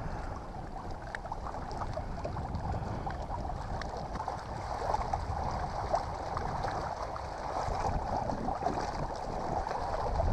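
Water lapping and splashing against a kayak's hull as it moves into the wind, a steady wash dotted with many small splashes.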